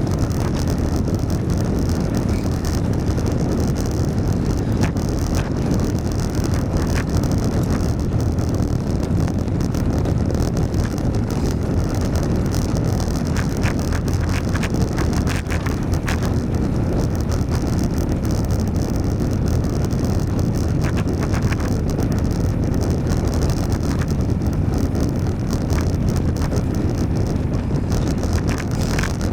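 Steady wind rushing over the microphone of a riding cyclist, mixed with road and traffic noise, with a few faint clicks.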